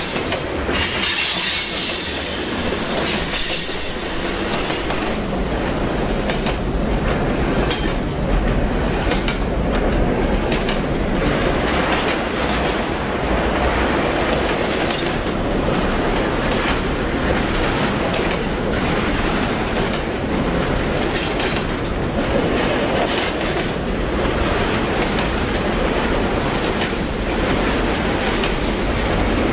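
Freight train cars rolling past close by at speed: a steady rumble of steel wheels on rail with repeated clicks over the rail joints, and a spell of high wheel squeal about a second in.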